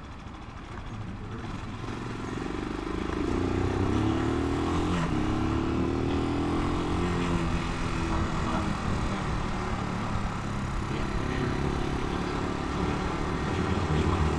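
Italika 250 motorcycle engine under way: it picks up over a few seconds with rising pitch, drops at a gear change about five seconds in, runs steadily, then rises again near the end.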